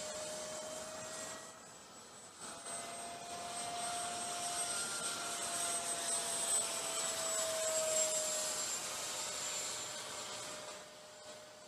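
Electric ducted fan of a Freewing F-16 70 mm EDF model jet whining in flight: a high steady whine over a lower tone that sags slightly in pitch about eight seconds in. It grows louder in the middle and fades near the end as the jet passes.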